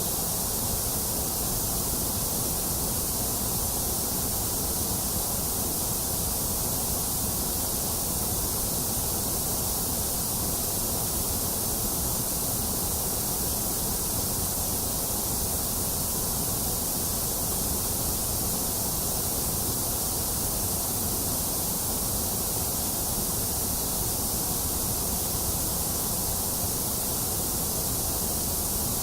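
Electronically generated white noise: a steady, unchanging hiss, strongest in the high end.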